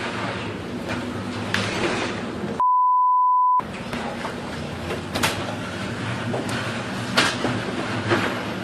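Ship's deck in a storm at sea: a steady rush of wind and water over a low hum, broken by several sharp knocks and crashes. About two and a half seconds in, a one-second censor bleep tone replaces the sound, covering a word.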